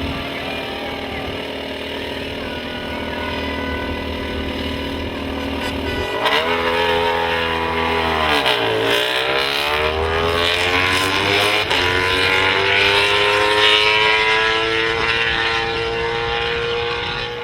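Racing motorcycle engines at a road-racing circuit: a steady engine hum, then about six seconds in a louder bike whose engine pitch drops steeply as it slows, then climbs steadily as it accelerates away, growing louder.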